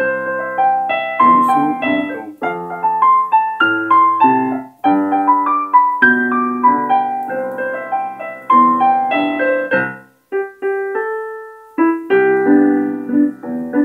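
Piano playing a broken-chord rumba intro, arpeggiating C, F and G chords and back to C. The notes stop briefly about ten seconds in, then start again.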